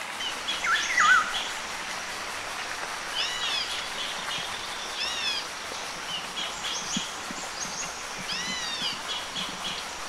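Birds calling outdoors over a steady background hiss: short repeated high chirps, and every second or two an arching call that rises and falls.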